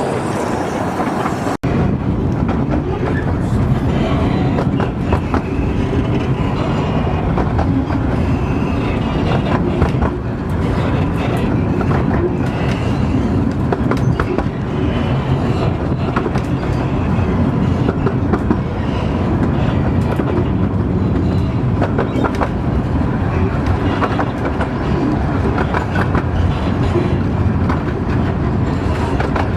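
A Romney, Hythe and Dymchurch Railway miniature train running along the track, with a steady rumble and wheels clicking over the rail joints. There is a brief cut-out about a second and a half in.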